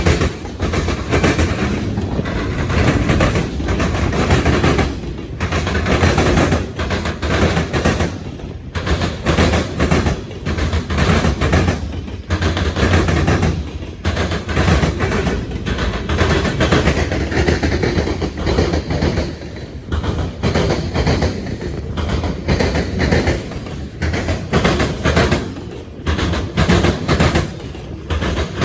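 Freight train rolling over railroad diamonds (flat track crossings): wheels bang across the crossing gaps in a long, uneven string of loud clacks over the steady rumble of the passing cars.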